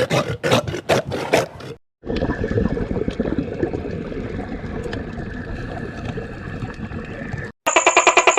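An animal roaring in loud, uneven pulses, cut off after about two seconds. Then a steady trickling, gurgling water-like noise, and near the end a loud, fast, rhythmic pulsing sound starts abruptly.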